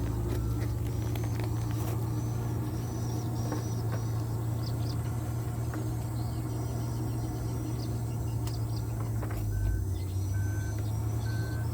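Isuzu Giga dump truck's diesel engine running steadily. A faint high chirp repeats about twice a second, and from about nine seconds in a short beep sounds at a steady pace.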